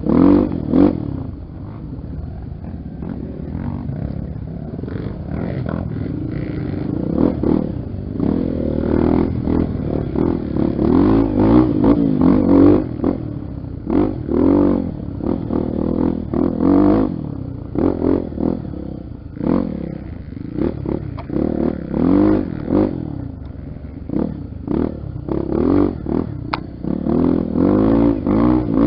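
Honda XR 250 Tornado's single-cylinder four-stroke engine ridden off-road, revving up and falling back again and again as the throttle is opened and closed.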